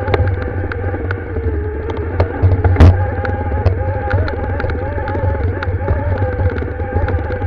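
Motorcycle engine running steadily on a trail climb, a wavering drone over a heavy low rumble. Frequent small clicks and rattles throughout, and one loud knock about three seconds in.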